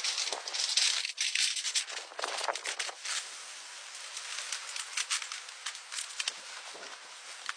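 Rustling and crackling with many small, sharp clicks, like dry natural material being handled or snapping.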